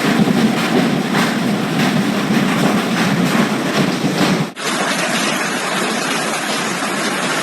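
Hail pelting down in a dense, steady roar of countless small impacts. A cut about four and a half seconds in switches to a second recording of the same kind of downpour.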